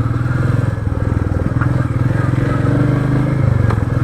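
Royal Enfield Meteor 350's single-cylinder engine running at low revs with a steady, even exhaust pulse. The pitch shifts a little as the throttle changes.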